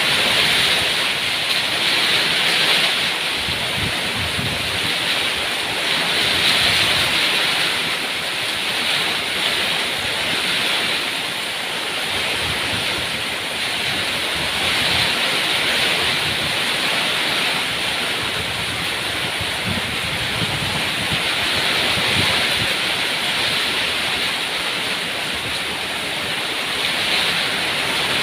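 Heavy rain falling steadily: a dense, even hiss that slowly swells and eases every few seconds.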